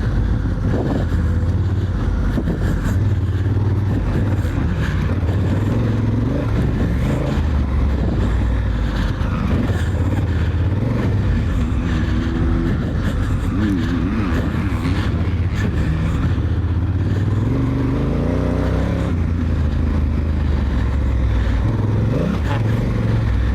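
Honda Africa Twin's parallel-twin engine under a rider on a motocross track, revving up and falling back again and again with the throttle.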